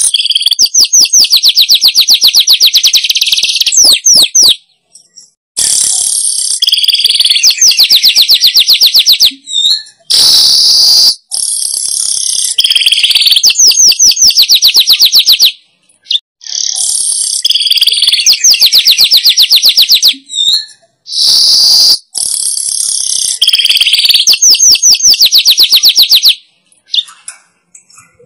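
Manyar weaver song played as a lure recording: the same loud phrase repeated five times, about every five and a half seconds, each a hissing buzz running into a fast, dry chatter of ticks.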